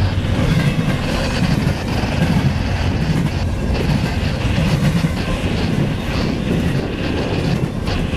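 CSX double-stack intermodal freight train passing at speed: a loud, steady rumble and rattle of the well cars' steel wheels rolling on the rails.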